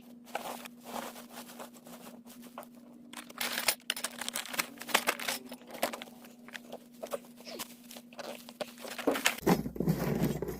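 Insulation being handled and pushed into place, giving irregular rustling and crinkling with scattered light knocks over a steady low hum. The hum stops about nine seconds in.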